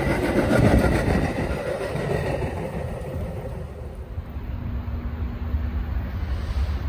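Metra bilevel commuter cars rolling past on the rails, loud at first and fading as the train moves away. About four seconds in, a quieter low rumble of an approaching BNSF freight train with a faint steady tone.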